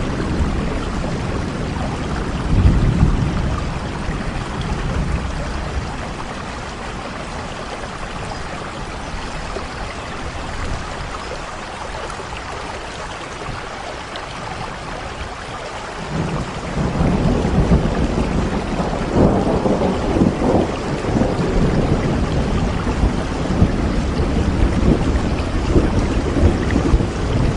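Steady rain falling, with rolling thunder. The low rumble eases off through the middle and returns louder about two-thirds of the way in.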